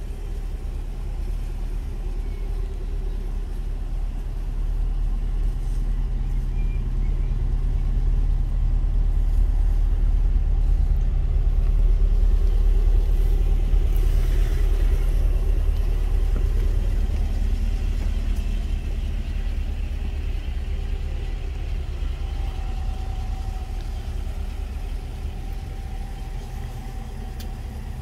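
Holden Commodore SS-V Redline's 6.2-litre V8 idling steadily, growing louder toward the middle and fading again.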